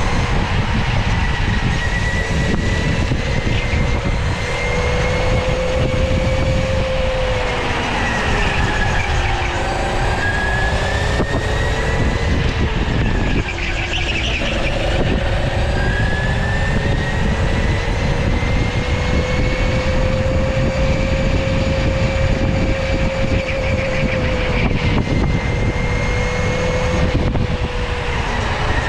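Electric go-kart's motor whining under way. Its pitch dips twice as the kart slows and climbs again as it speeds up, over a steady low rumbling noise.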